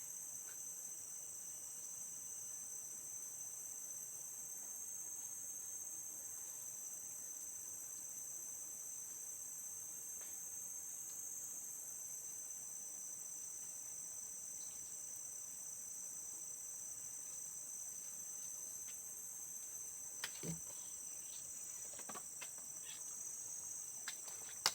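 Steady, high-pitched chorus of insects, several shrill tones held without a break. A few sharp knocks and clicks come near the end.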